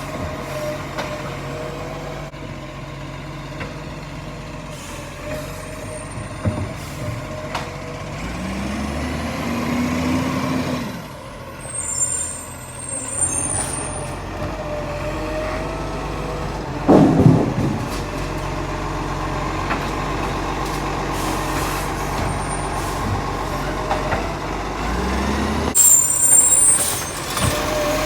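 Green waste collection truck working its lifting arm: the engine runs steadily and revs up twice, with high-pitched squeals and a loud knock about halfway through. The arm's movement is described as a bit rough.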